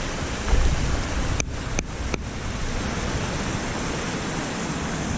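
Steady rushing noise of a waterfall, with wind buffeting the microphone. The sound briefly drops out three times about a second and a half in.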